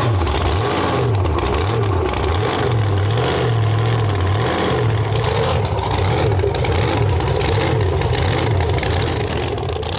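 A big truck engine revved up and down over and over, about once a second, its pitch rising and falling each time.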